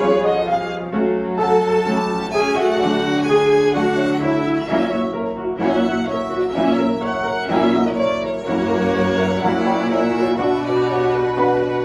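Live chamber ensemble music led by violins over a lower string line, playing a melody in held notes that change every second or so.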